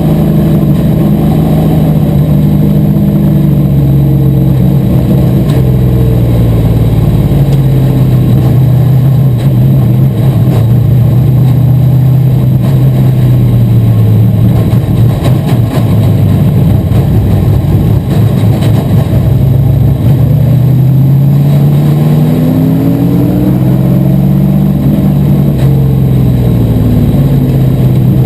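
Asphalt modified race car engine running hard under racing load. Its pitch sinks slowly over the first half, as the revs drop, then climbs again from about two-thirds in as the engine revs back up.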